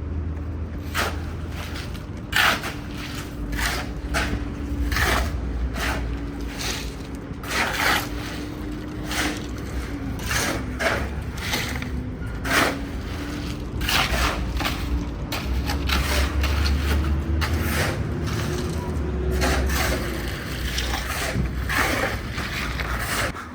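Repeated, irregular scraping strokes of a hand tool working on a surface, roughly one to two a second, over a low steady hum.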